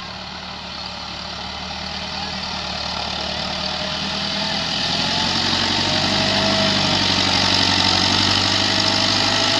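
Diesel tractor engine running steadily under load, growing gradually louder.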